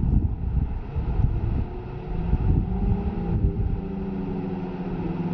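Gusty wind rumble buffeting the microphone, joined from about two seconds in by the steady hum of a boat's engine.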